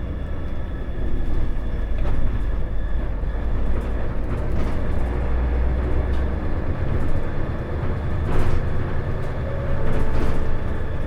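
Isuzu Erga city bus (KL-LV380L1) running, heard from inside the cabin: a steady low engine drone that eases a little about six seconds in, with a few short knocks or rattles.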